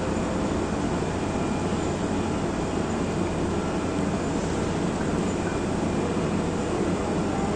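Steady industrial machinery rumble with a low hum and a few faint steady tones, unchanging throughout.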